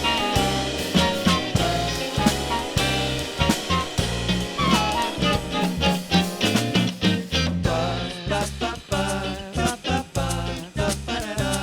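Live band playing an instrumental passage with a steady beat, between sung lines.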